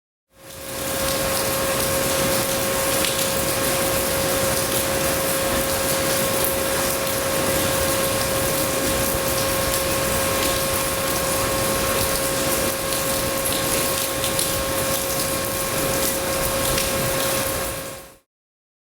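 Steady heavy rain, with a constant hum at one pitch running underneath; the hum's source is not shown. It cuts off sharply near the end.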